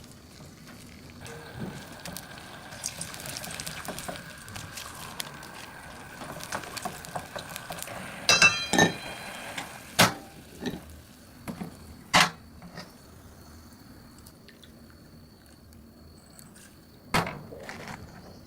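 A soft liquid hiss for several seconds, then a ringing metal clink about eight seconds in, followed by three sharp knocks spaced a few seconds apart.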